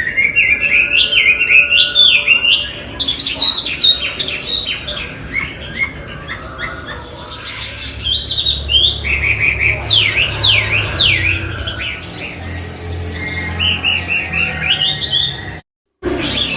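Chinese hwamei singing a loud, varied song of quick, repeated down-slurred whistled notes in changing phrases. The sound cuts out abruptly for a moment near the end, then resumes.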